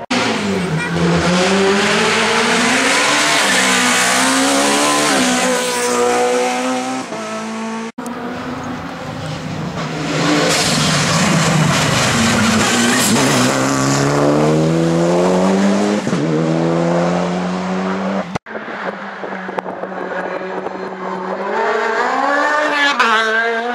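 Racing car engines at full throttle on a hillclimb, in three passes: each one revs up through the gears, with the pitch climbing and dropping at every shift as the car goes by. Abrupt cuts about 8 and 18 seconds in separate the passes.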